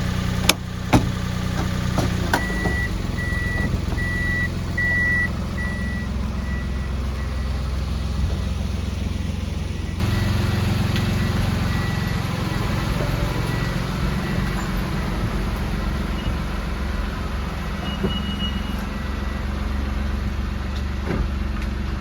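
Kei truck engine running steadily with road noise, heard from inside the cab. Two sharp clicks come near the start, and a high repeating beep sounds for a few seconds soon after.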